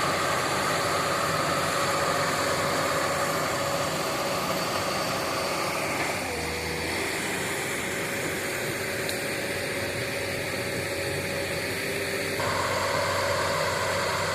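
Diesel engine of a hydraulic excavator running steadily while it travels on its tracks across swampy ground. Its tone shifts about six seconds in and shifts back about twelve seconds in.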